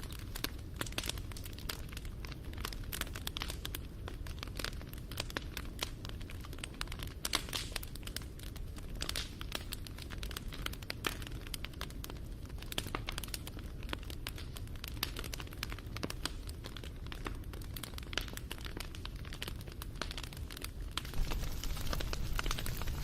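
Wood fire crackling, with a dense, irregular patter of small pops and snaps over a low rumble. It grows a little louder about 21 seconds in.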